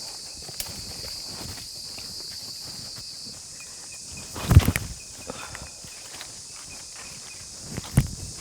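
Steady high-pitched insect chorus of the rainforest, one of its layers dropping out about three seconds in, with footsteps and rustling on the trail and two heavy thumps about halfway through and near the end.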